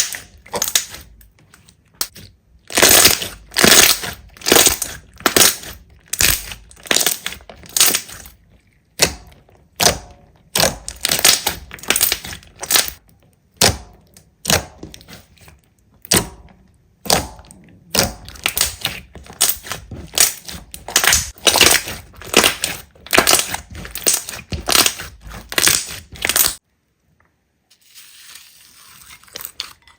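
Slime being squeezed and pressed, giving repeated crackling crunches roughly twice a second; they stop suddenly near the end.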